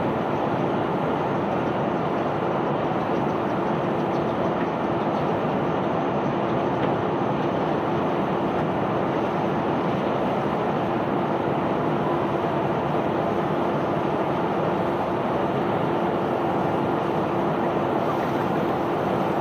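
A self-unloading barge's unloading machinery running steadily as it discharges bulk ore and rock: a continuous mechanical rumble with a steady hum.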